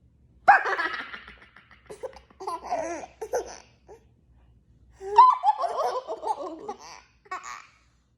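A toddler laughing in about four bursts of giggles and belly laughs, the loudest about half a second in and again about five seconds in.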